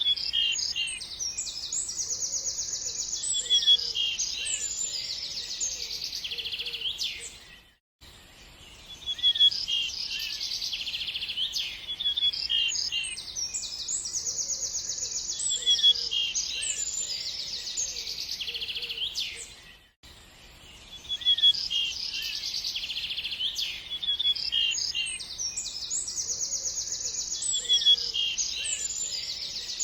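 Several small songbirds chirping and singing fast trills, high-pitched and busy. The same stretch of birdsong repeats about every twelve seconds, with a brief dip in level just before each repeat, like a looped recording.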